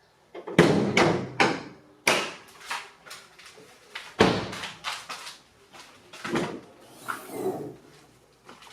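A series of about eight sharp knocks and clunks at uneven intervals, each ringing away briefly, loudest in the first two seconds.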